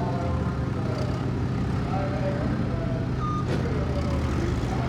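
Several demolition derby cars' engines running together in a steady drone, with a sharp knock about three and a half seconds in and another near the end, typical of cars colliding.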